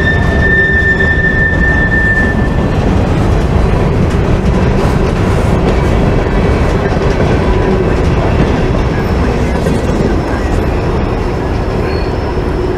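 Freight cars rolling past on the rails: a steady, loud rumble of steel wheels on track, with a high-pitched wheel squeal that dies away about two seconds in.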